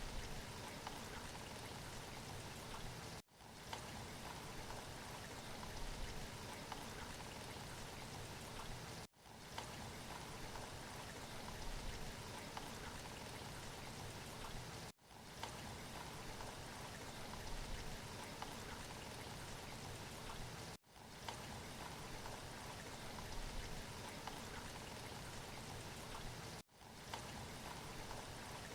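Recorded rain playing as a steady, even hiss, looped: about every six seconds it cuts out for an instant and fades straight back in as the short loop restarts.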